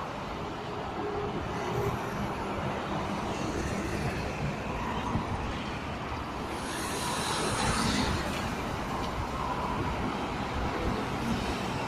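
Steady motorway traffic with lorries driving past, a continuous rush of engines and tyre noise. One vehicle passes closer and louder about seven seconds in, its tyre hiss rising and then fading.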